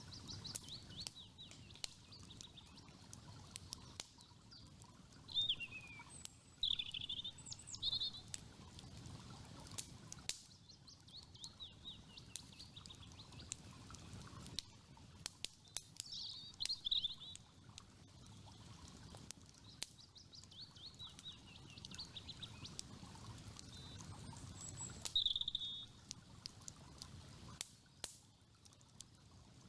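Campfire crackling with frequent sharp pops, over a steady low rush of river water. Birds chirp and sing at intervals, loudest a few times through the clip.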